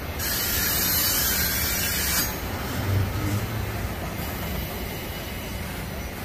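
Union Pacific double-stack intermodal train rolling past, its container well cars rumbling steadily. A loud hiss lasts about two seconds near the start, and a brief low thump comes about three seconds in.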